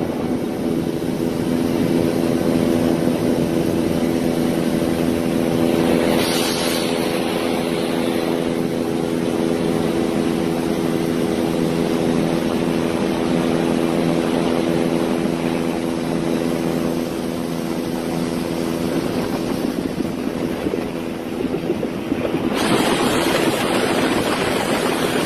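A vehicle engine idling steadily under a constant hiss of heavy rain. Near the end the engine hum fades and a sudden, louder rushing hiss takes over.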